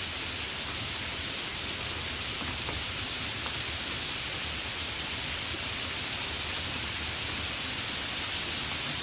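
Light rain falling steadily, an even hiss with scattered drop ticks; one drop lands a little louder about three and a half seconds in.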